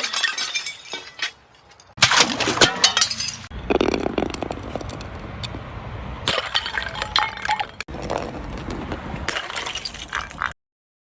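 Glass bottles being crushed and broken: dense crunching, crackling and clinking of shards, in several short takes that switch abruptly from one to the next, cutting to dead silence near the end.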